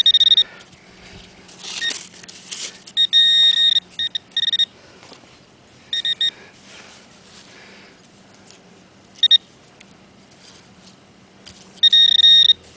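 Metal detector giving short, high-pitched beeps in irregular clusters as it is swept over a buried metal target.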